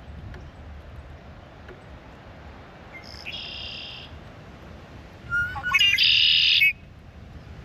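Grackle calls: a short, harsh squeak about three seconds in, then a louder call about five seconds in, a quick run of clicks leading into a squeal of over a second.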